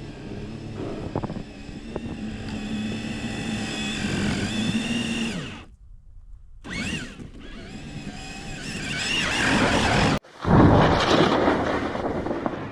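Electric motor of a radio-controlled car whining as it revs, its pitch rising and falling, broken by two brief gaps. A loud rushing noise takes over near the end.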